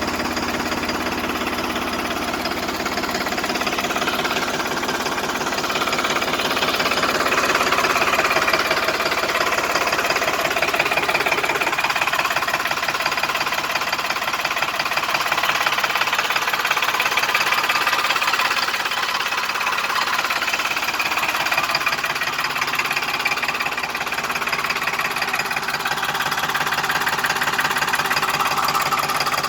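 New Holland tractor's diesel engine running steadily, with a rapid even beat from its firing.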